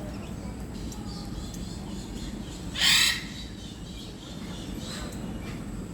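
One short, harsh bird squawk about three seconds in, over a steady low background hum.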